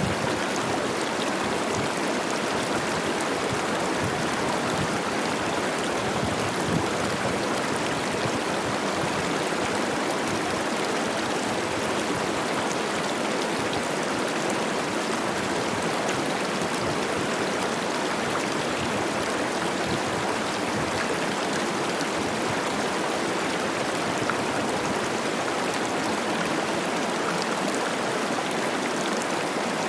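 Cache la Poudre River, running high with spring snowmelt, rushing and babbling over rocks in a steady, even flow.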